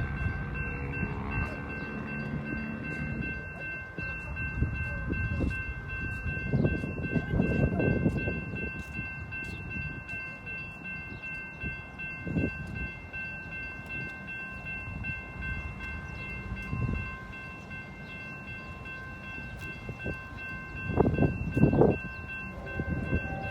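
CSX freight train of intermodal and autorack cars rolling by, a steady low rumble of wheels on the rails with a few louder swells.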